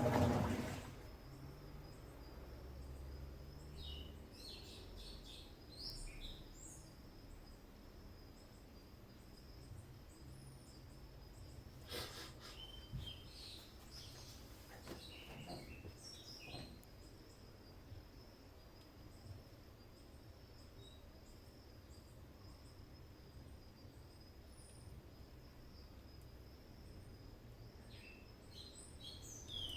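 Birds chirping in short scattered bursts over a faint, steady low hum from a top-load washing machine running its cycle. There is a single sharp click about twelve seconds in.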